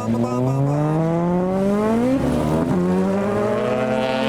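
A car engine accelerating hard: the revs climb steadily, drop sharply at an upshift about two seconds in, then climb again in the next gear.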